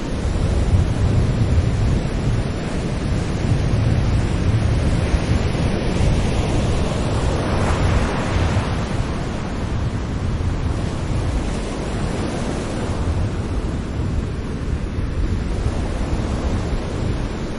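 Sea waves breaking and washing on a shore: a steady surf hiss over a low rumble, with one wave's wash swelling up about halfway through and fading again.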